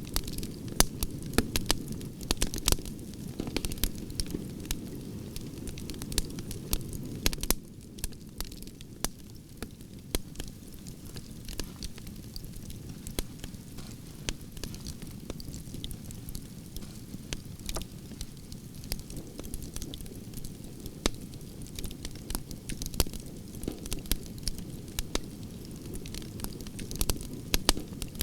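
Wood fire of burning branches crackling: frequent sharp pops and snaps over a steady low rumble, which drops a little about seven seconds in.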